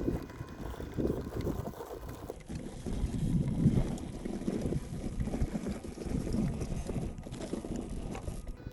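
Wind buffeting the microphone in uneven gusts, over the faint running of a WPL B36 Ural 6x6 RC truck driving over desert ground.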